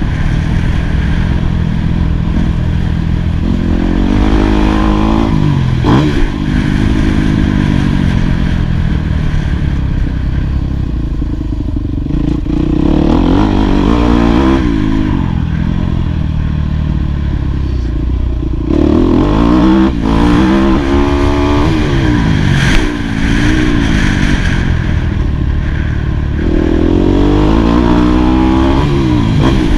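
Yamaha YZ250F four-stroke single-cylinder motocross engine revving hard and backing off over and over as the bike is ridden, its pitch climbing and dropping with each burst of throttle and gear change. A few sharp knocks are mixed in.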